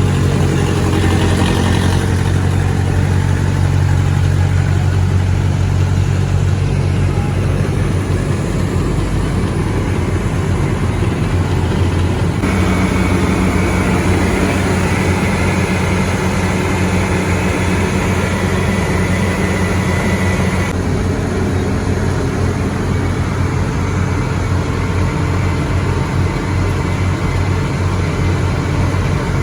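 Diesel engines of heavy road-construction machinery running steadily, a low hum that changes abruptly a few times as one machine's sound is cut to another's.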